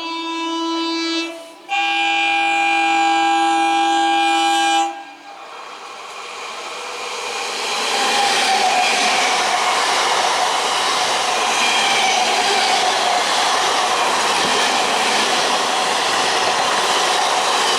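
An Indian Railways train's multi-tone horn sounding, cut off briefly, then blown again for about three seconds. The train then passes at speed: a loud rushing noise builds up and holds steady.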